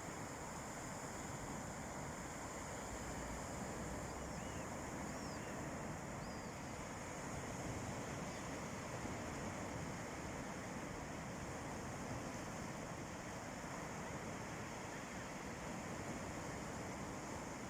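Calm sea waves washing steadily onto a beach, with wind on the microphone. A few faint short chirps about four to six seconds in.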